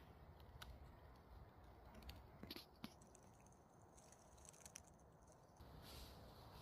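Near silence, with a few faint, scattered clicks and crackles over a low background hum.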